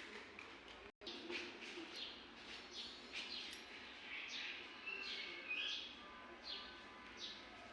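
Birds chirping: many short calls that slide down in pitch, repeating every half second or so over faint background, with a brief break in the sound about a second in.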